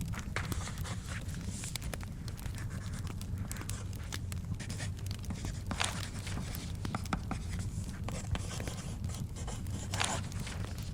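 Wood fire crackling over a low steady rumble, while the pages of a book are turned and rustle several times, most strongly about six and ten seconds in.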